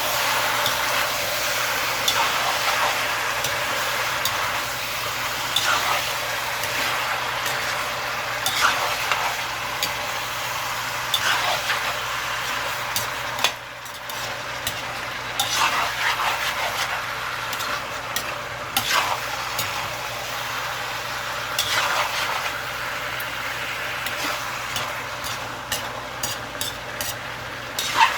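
Chicken frying in a pan with a steady sizzle while it is stirred. A utensil scrapes and knocks against the pan every second or two.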